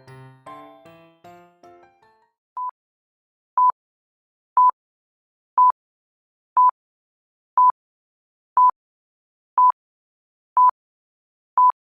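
A short jingle of falling notes fades out, then a quiz countdown timer beeps ten times, one short high beep of the same pitch each second.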